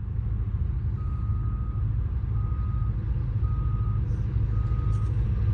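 Steady low diesel rumble of a Union Pacific freight train's EMD locomotives. From about a second in, a high electronic beep repeats about once a second, five times.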